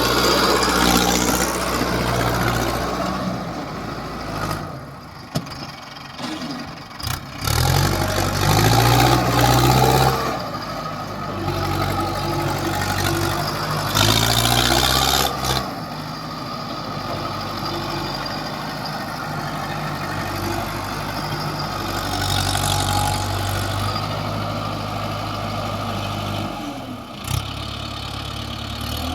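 Mahindra Arjun 555 tractor's diesel engine running, revved up and eased back several times, with the pitch climbing twice in the middle and settling to a steady run in between.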